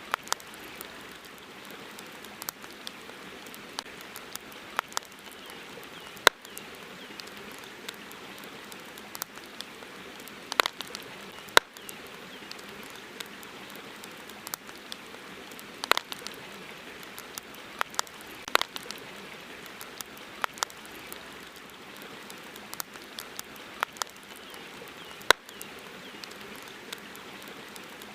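Wood campfire crackling: irregular sharp pops and snaps, a few much louder than the rest, over a steady soft hiss.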